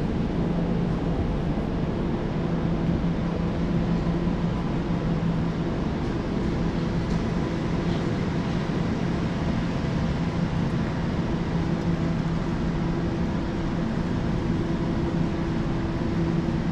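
Elizabeth line Class 345 train running at steady speed: an even rumble with a steady low hum.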